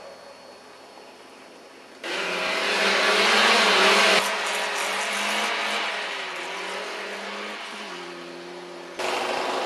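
Car engines revving up and down as cars slide around a snow-covered ice track. The sound is quiet at first, turns much louder about two seconds in, and changes abruptly about four seconds in and again near the end.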